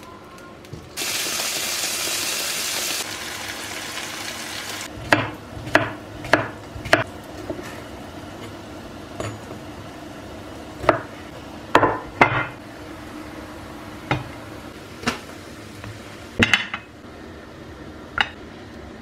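A loud, steady hiss for about two seconds, tailing off, then a series of separate clinks and knocks of dishes and utensils being handled, about a dozen in all.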